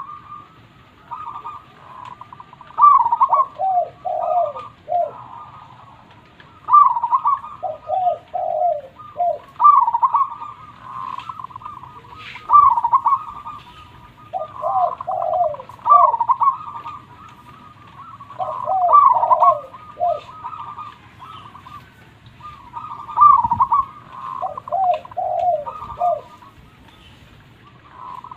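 Zebra dove (perkutut) cooing: phrases of quick, short, trilling coo notes, repeated every few seconds.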